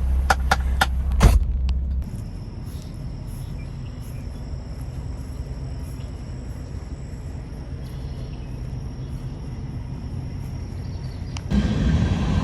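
Low rumble of an idling truck with four sharp knocks in the first two seconds. It then drops to a quieter stretch with a faint steady high-pitched tone, and the loud rumble comes back near the end.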